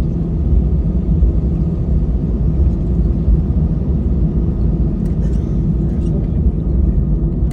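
Steady low rumble of an Airbus A320's jet engines and airflow, heard from inside the passenger cabin.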